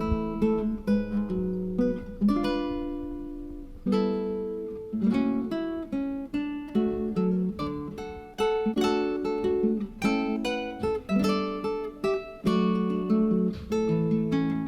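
Background music: acoustic guitar strumming and plucking chords in a steady rhythm.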